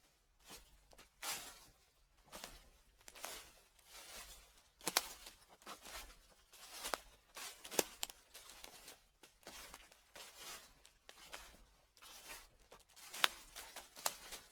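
Footsteps crunching through dry fallen leaves at a slow, even pace of about one step a second, each step a crackly rustle with sharp snaps of brittle leaves.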